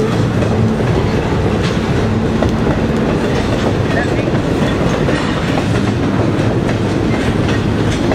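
Double-stacked container cars of a CN intermodal freight train rolling past at speed: steel wheels running over the rails in a steady, loud, unbroken noise.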